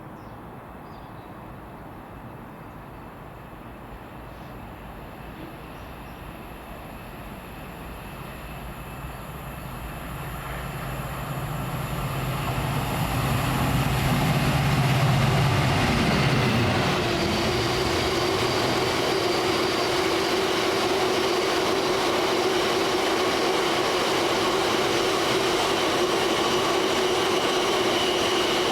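A train approaching and passing on the main line: a rumble that builds over several seconds, a low engine tone that drops in pitch as the front goes by about sixteen seconds in, then a steady run of wheels on rails with a steady hum as the rest of the train passes.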